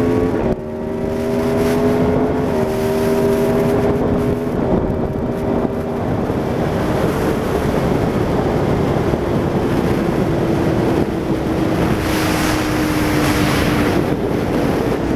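Aprilia Tuono V4 APRC's V4 engine through a Laser aftermarket exhaust, pulling up through the gears with three quick upshifts in the first few seconds. It then holds one note that slowly falls as the bike eases off, dying away near the end. Heavy wind noise on the microphone throughout.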